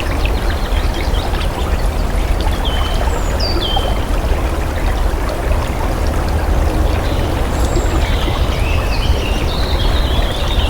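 Running water flowing steadily and loudly, like a stream or small cascade. Short high bird chirps come in about two and a half seconds in and again through the last few seconds.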